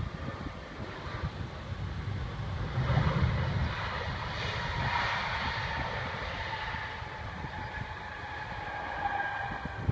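Airbus A320 jet engines running, a whine that slides slowly downward over a low rumble, which swells about three seconds in.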